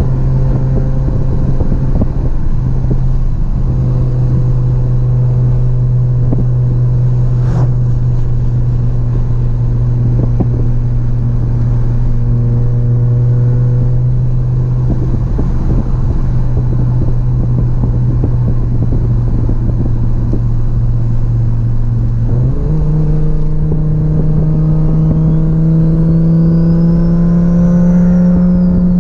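Audi UrS4's turbocharged 2.2-litre five-cylinder engine and exhaust, heard from inside the cabin while cruising at steady revs. A little over 20 seconds in the revs step up suddenly and then climb slowly, and a faint whistle rises and falls near the end.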